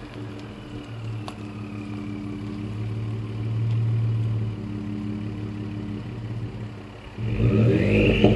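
Ford Expedition's 3.5 L twin-turbo EcoBoost V6 with an SPD Performance turbo whistler exhaust idling steadily, then revved sharply about seven seconds in. As it revs, the whistler exhaust gives a rising whistle.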